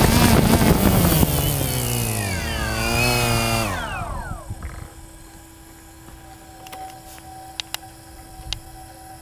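DJI Phantom 2 quadcopter's motors and propellers spinning down, their whine sliding steadily lower in pitch until they stop about four seconds in. After that there is a faint steady hum and a few small clicks.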